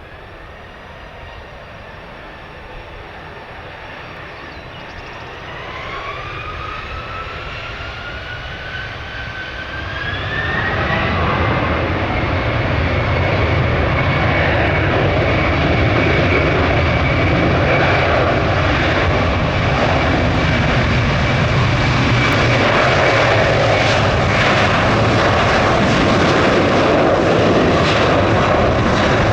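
Jet airliner's engines spooling up: a whine rises in pitch over several seconds while the noise grows, then holds as a loud, steady jet noise with a high whine.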